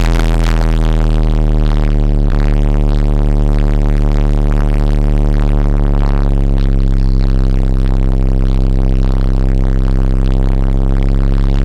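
FI Neo 12-inch car subwoofers, each on about 8500 watts, playing electronic music at extreme volume. A deep bass note holds steady, topped by a stack of overtones.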